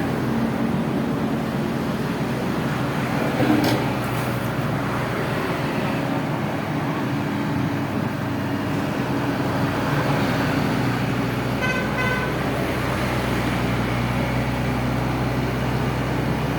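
Excavator's diesel engine running steadily, with a clank about three and a half seconds in and a short horn toot about twelve seconds in.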